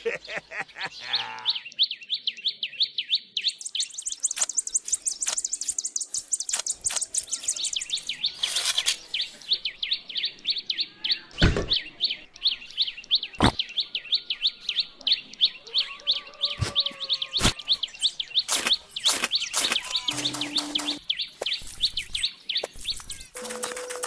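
Birds chirping in a fast, unbroken run of high chirps, with scattered sharp clicks and knocks over it.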